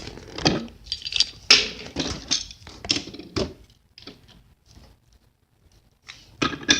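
Small toy train engines clicking and clattering as they are handled, a run of irregular light knocks that thins out about four seconds in, then a louder clatter near the end.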